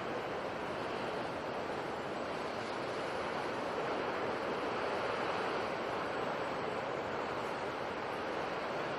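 Sea waves and surf making a steady, continuous rush, swelling slightly in the middle.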